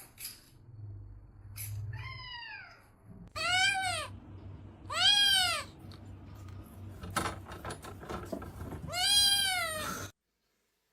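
A cat meowing four times, each call rising and then falling in pitch, with a few short clicks between the calls.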